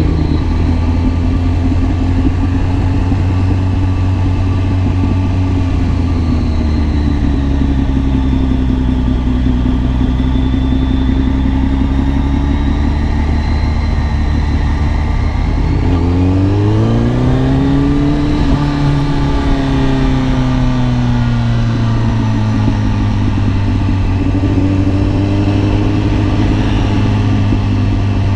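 Kawasaki ZX-10R's inline-four engine running under way, holding fairly even revs, then revving up sharply about two-thirds through and easing off slowly as the bike accelerates and settles back.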